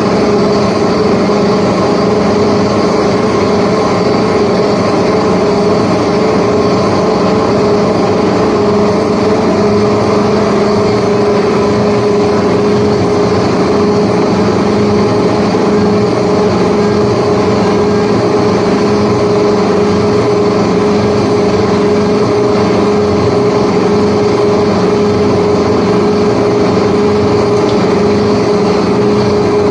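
Power tool running steadily while smoothing a yacht's rudder: an even motor hum with a constant pitch, over a dense rasping noise.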